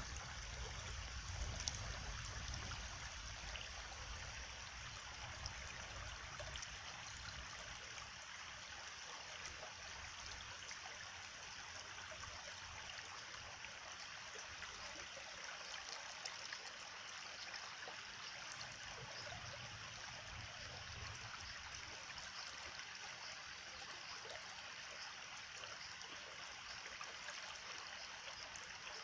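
A stream running and trickling steadily, an even rush of water, with a low rumble near the start and again about two-thirds of the way through.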